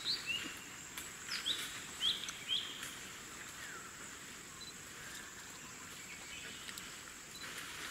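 Birds chirping: a string of short, quick calls in the first three seconds, then only a few, over a steady high-pitched tone and a light hiss.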